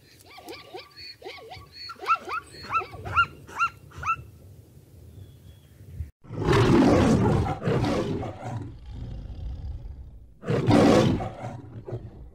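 A zebra's barking call, a run of about ten short yelping notes that rise and fall in pitch; then, after a short gap, a male lion roars twice, a long rough roar about halfway through and a shorter one near the end. The lion roars are the loudest sounds.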